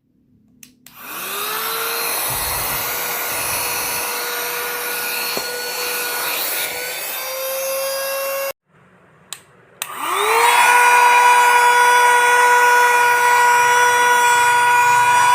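Small cordless handheld vacuum cleaner's motor whining with a rush of air. It spins up with a rising pitch about a second in and runs steadily, then is switched off with a click around the middle. It is switched back on, spins up again and runs steadily to the end.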